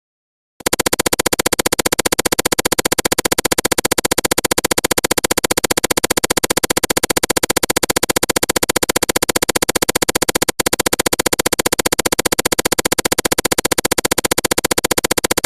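A loud electronic synthesizer sound pulsing very rapidly and evenly. It starts abruptly about half a second in, drops out for an instant near the ten-second mark and cuts off sharply at the end.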